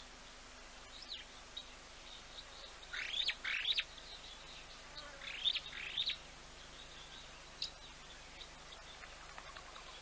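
Wild birds calling. The main calls are two pairs of quick, high, upward-sweeping chirps, about three and five seconds in, with a few fainter short chirps scattered around them.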